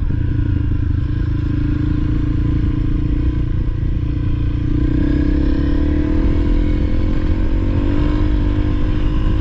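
Honda CRF300L's single-cylinder four-stroke engine running steadily while riding along a dirt track, over a dense low rumbling noise. About halfway through, the engine pitch climbs gradually as the bike speeds up.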